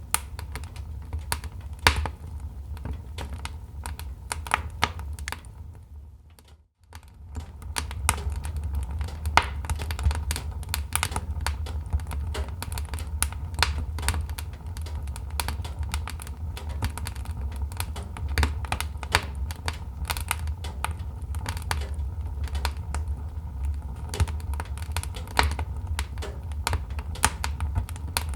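Wood fire crackling: a steady low rumble of the burning fire with many irregular sharp pops and snaps from the wood. About six seconds in the sound fades out briefly and comes straight back.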